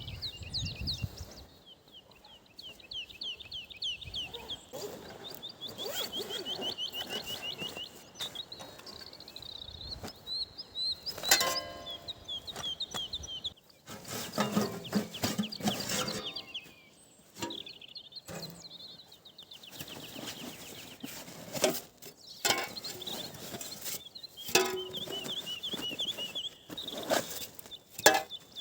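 Songbirds singing in the forest, rapid high trills repeating again and again, with several sharp knocks and some rustling mixed in.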